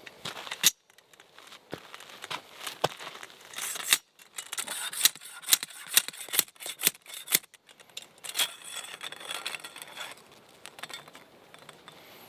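Close handling noise: crinkling and rustling with a quick run of sharp clicks and snips, busiest in the middle.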